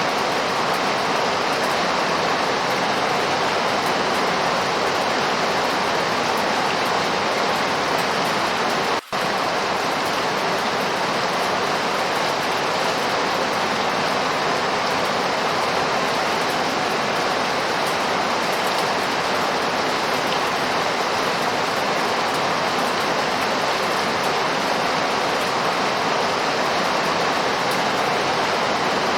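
Steady heavy rainfall, an even hiss with no separate drops standing out, briefly cutting out for an instant about nine seconds in.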